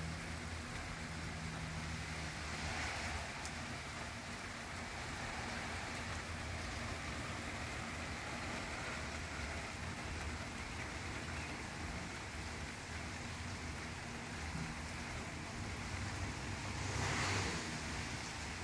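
Steady rain falling, an even hiss, with a brief louder swell near the end.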